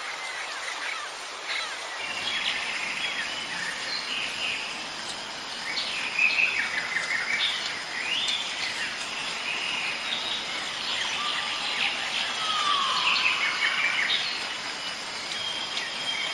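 A dawn-chorus-like mix of several birds chirping and calling over a steady background hiss, with one longer falling call near the end.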